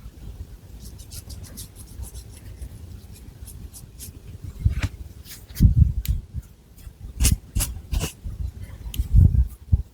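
Long fingernails scratching through thick long hair and over the scalp: many quick, crisp scratches, with a few heavier low thuds in the second half.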